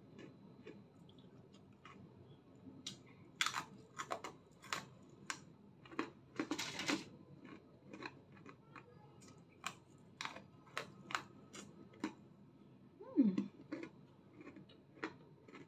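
A crisp breadstick being bitten and chewed: a scattered series of short, irregular crunches and clicks, with a longer crunch about halfway through.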